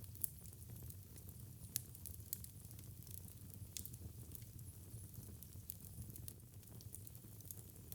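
Wood fire crackling in a fireplace: a few sharp pops and clicks, the clearest about two seconds and four seconds in, over a soft low steady rumble of the burning fire.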